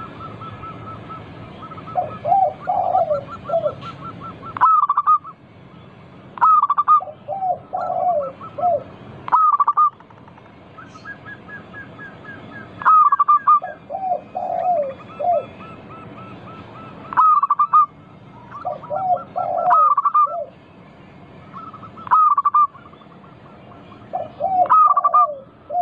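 Zebra dove (perkutut) singing its rhythmic cooing song, phrase after phrase every few seconds, each phrase a run of lower coos followed by higher, stronger notes. A fast run of high ticking notes is heard near the start and again about halfway through.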